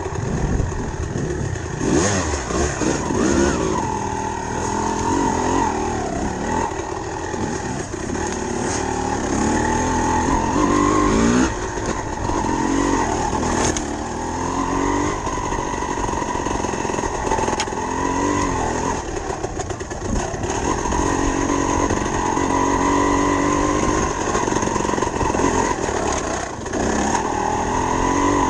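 Dirt bike engine running hard, its pitch climbing and dropping back again and again as it is revved and ridden.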